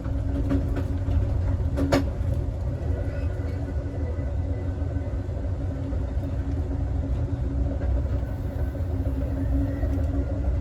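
Steady low rumble of a moving passenger train, heard from inside its last car, with a few light clicks in the first two seconds and a sharp knock about two seconds in.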